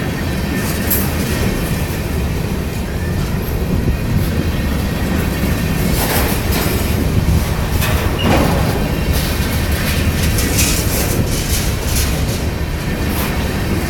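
Freight train rolling past with a steady heavy rumble, its wheels clicking and clattering irregularly over the rail joints.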